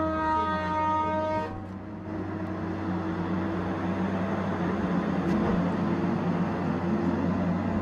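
Tigercat 870C feller buncher running under work with a steady engine drone. A high, steady whine from the machine cuts out about a second and a half in.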